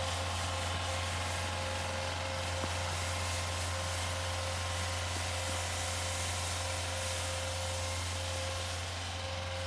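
Snowblower running steadily at a constant pitch, with a low hum and a steady tone under an even hiss of snow being thrown.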